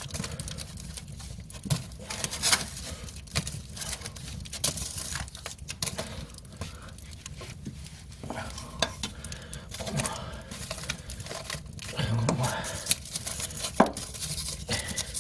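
Wood fire crackling and popping in a traditional Korean agungi firebox, with scraping and knocking as sweet potatoes are pushed in among the burning logs.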